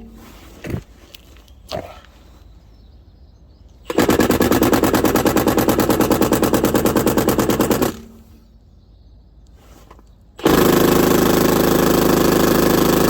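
Milwaukee Fuel cordless impact wrench hammering on a locking wheel nut through a conical socket, in two long rapid bursts: one about four seconds in, lasting some four seconds, and another starting about ten seconds in. The nut is really tight and does not come loose. A few light knocks come before the first burst.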